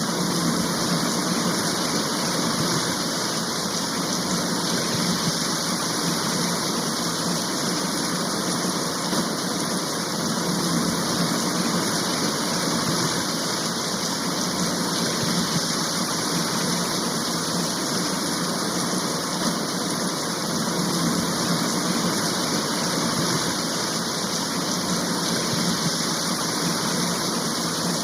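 Steady downpour of a rain shower: an even, unbroken hiss of rain.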